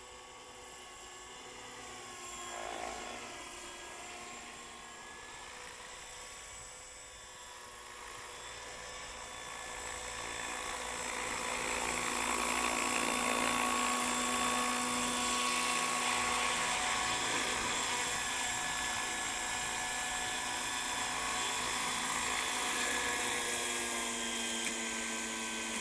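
Hurricane 550 radio-controlled model helicopter with an Agusta A109 scale body flying, its rotors and drive giving a steady high whine. It grows louder from about ten seconds in and stays loud.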